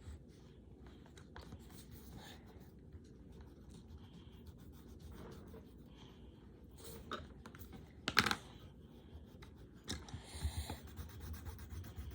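Colour pencils scratching on paper while colouring, faint, with a brief louder sound about eight seconds in.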